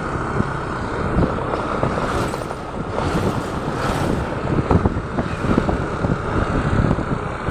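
Wind buffeting the microphone on a moving motorcycle, a steady rushing noise with irregular gusts and thumps over the motorcycle's engine and road noise.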